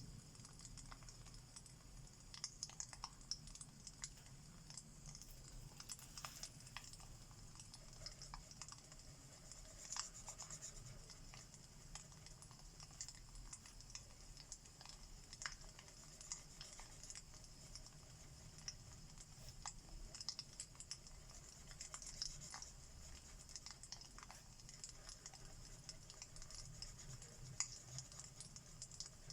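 Faint, irregular crackles and ticks from a recorded log fire over a soft steady hiss, mixed with the scratch of alcohol markers on paper.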